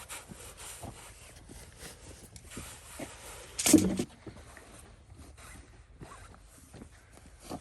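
Spade scraping and cutting into soil, with small scuffs and one loud gritty scrape a little past halfway through.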